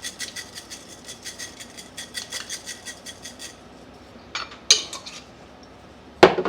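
Metal spoon clinking quickly and evenly against a dish, about six or seven taps a second, as minced garlic is spooned into the casserole; the tapping stops partway through, followed by a few separate clinks and a louder knock near the end.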